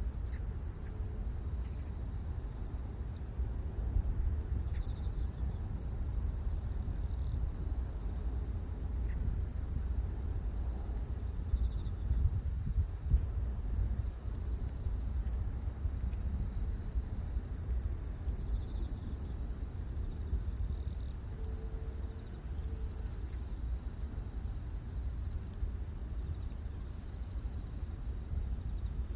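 Crickets and other grass insects singing: one steady, high, unbroken trill, with another cricket chirping in short pulsed bursts every second or so. A steady low rumble runs underneath.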